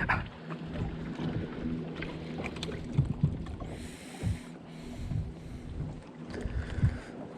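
A boat motor's steady low hum, with scattered knocks and a short hiss about four seconds in.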